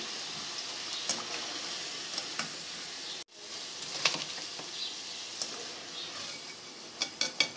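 Potato finger chips frying in hot ghee: a steady sizzle with scattered small crackles, cutting out for an instant about three seconds in.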